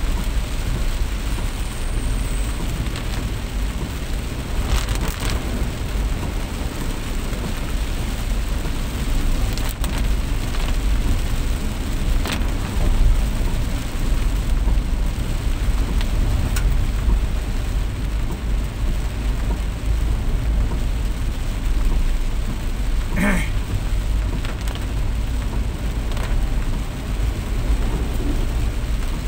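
Heavy rain coming down steadily: a continuous hiss over a strong low rumble, with a few sharp taps scattered through it.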